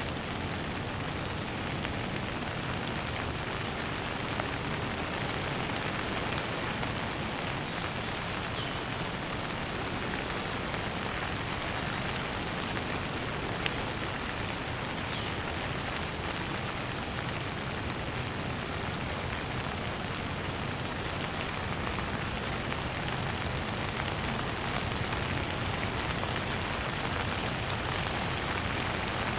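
Steady rain falling and pattering on surfaces, an even hiss throughout. A few faint, short high chirps of birds come through the rain now and then.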